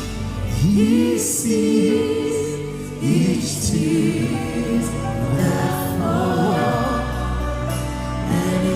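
Gospel song sung by voices over sustained keyboard-like accompaniment.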